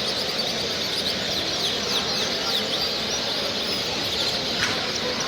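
Many small cage birds chirping at once: a dense chorus of short, high, quickly falling chirps over steady background noise.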